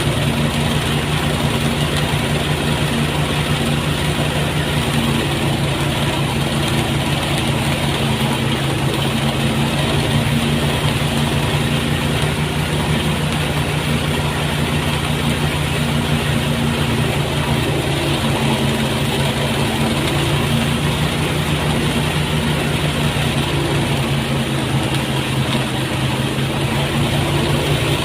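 Engine-powered rice threshing machine running steadily, a constant engine hum with an even mechanical rush over it.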